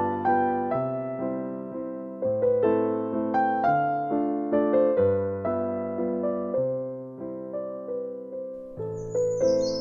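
Slow, gentle piano music, single notes and chords each struck and then fading. Near the end a bird chirps high above it.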